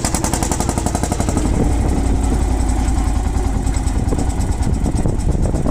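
Lanz Bulldog's single-cylinder two-stroke hot-bulb engine running on its own after a hard start, with a rapid, even beat of firing strokes.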